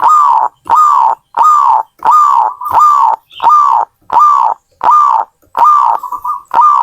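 Zebra dove (perkutut) cooing: a steady series of short, arched coos, about three every two seconds, with a quick rolling trill near the end before a final coo.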